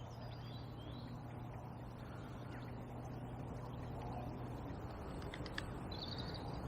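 Quiet riverbank ambience: a faint steady low hum under an even background hiss, with faint high bird calls, including a short burst of high chirping near the end.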